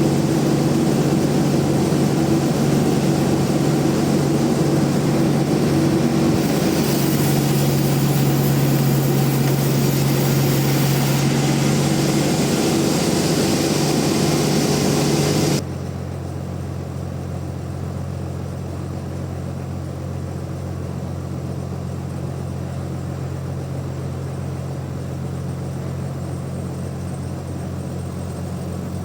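Large band sawmill running steadily, then dropping suddenly to a quieter, lower hum about halfway through.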